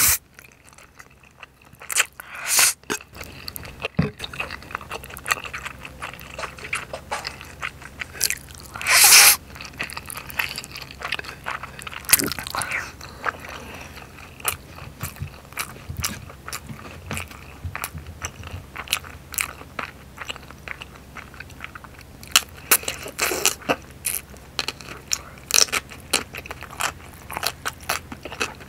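Close-miked eating of spicy rabokki: a loud slurp of ramen noodles at the start and another about a third of the way through, then steady wet chewing of the noodles and chewy rice cakes, with many small smacking clicks.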